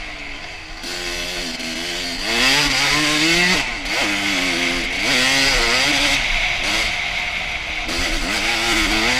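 Honda CR250's single-cylinder two-stroke dirt bike engine under riding load, its pitch rising and falling again and again as the throttle is worked, climbing highest about a third of the way in before dropping sharply.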